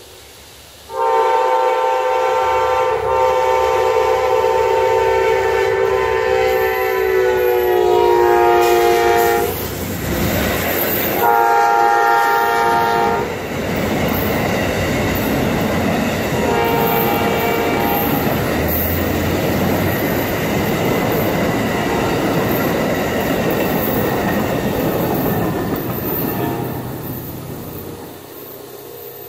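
Amtrak passenger train's horn sounding a long blast that drops in pitch as the locomotive passes, then two shorter blasts, for the grade crossing. Beneath it the passenger cars roll by with steady wheel-on-rail noise that fades near the end.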